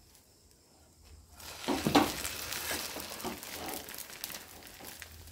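Egg-and-bread omelet flipped over into hot oil in a frying pan: a sudden burst of sizzling about one and a half seconds in as the raw side lands, then sizzling that slowly dies down, with light spatula scrapes against the pan.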